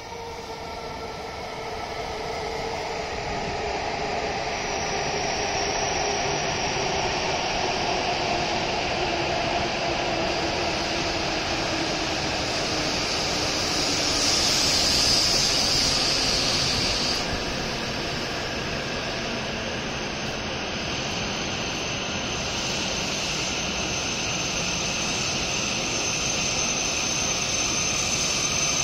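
W7 series Shinkansen train pulling in along the platform and slowing to a stop: a rush of wheels and air that grows louder as the cars come alongside, with a motor whine falling steadily in pitch as it brakes. A hiss comes about halfway through, and a high steady whine sets in for the later part.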